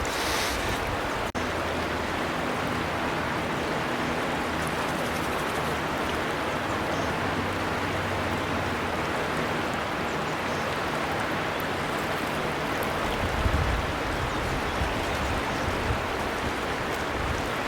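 River water flowing steadily over stones, a constant even rush, with a momentary dropout a little over a second in.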